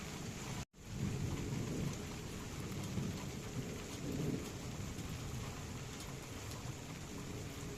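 Steady rain falling, with low rolling rumbles of thunder swelling up about a second in and again around four seconds. The sound cuts out completely for an instant just before the first rumble.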